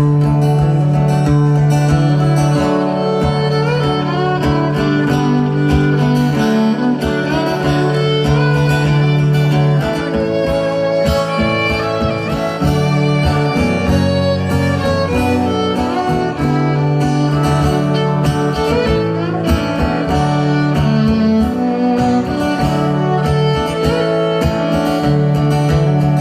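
Live band playing an instrumental break in a folk song, with no singing: a melody line over a steady bass and accompaniment.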